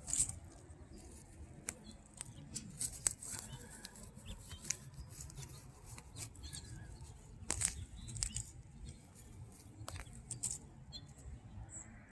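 Weeds being pulled out of wood chip mulch: irregular crackling, rustling and snapping of stems and chips, over a low rumble.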